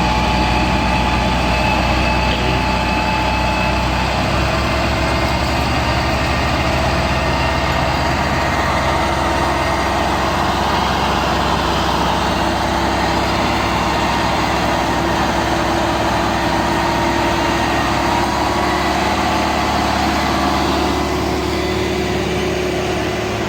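Tractor diesel engines running steadily under heavy load while pulling a loaded sugarcane trolley out of deep mud. The engine note shifts a little and eases slightly near the end.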